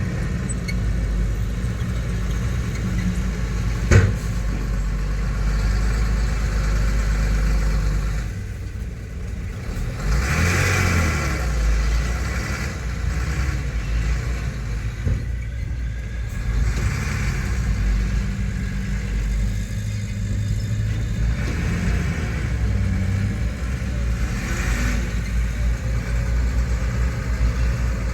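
Heavy earthmoving machinery's diesel engine running steadily and rising and falling with load, with a single sharp knock about four seconds in and a few short swells of higher hissing noise.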